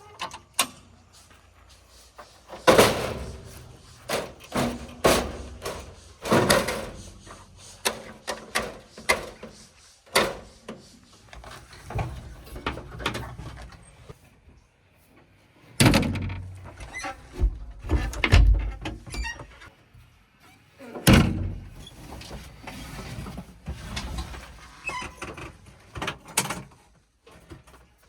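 Repeated heavy thuds and clanks, about eight loud hits, as a JCB 3DX backhoe loader's bucket works and murum is dumped into a steel tipper truck body.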